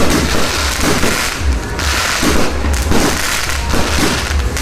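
Fireworks and firecrackers going off densely and without a break, a rapid mass of crackles and bangs, with music and its bass beat playing underneath.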